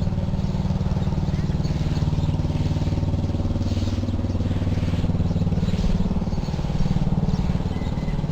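An engine idling steadily, a low, even, pulsing hum.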